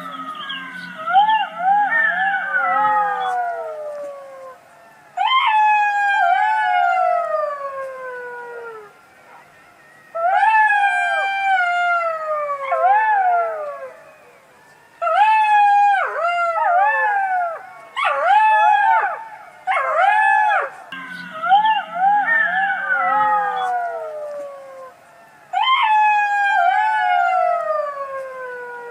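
A fox calling in repeated high wailing bouts, each call sliding down in pitch, with a new bout every few seconds.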